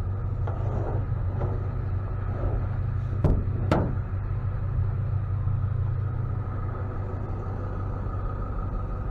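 A truck engine running steadily, with two sharp metallic clacks close together about three and a half seconds in.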